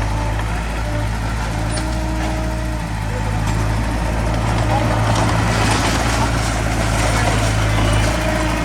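Diesel engine of heavy earthmoving equipment running steadily with a low drone; it grows louder about three and a half seconds in.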